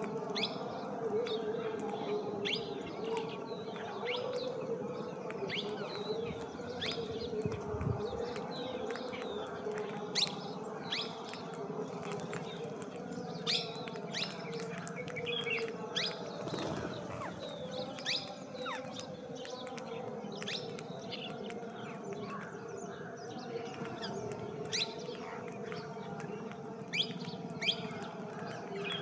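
Birds chirping: a steady stream of short, high, quickly falling chirps, several a second, over a low steady hum.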